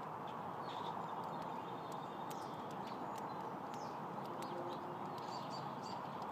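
Small wild birds chirping in short, scattered calls at a feeder, with sharp clicks mixed in, over a steady background hum.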